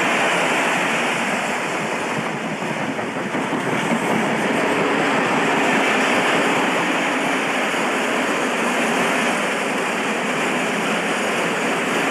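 An express passenger train hauled by a British Rail Class 87 electric locomotive passing at speed: a steady rush of wheel-on-rail noise as its coaches go by.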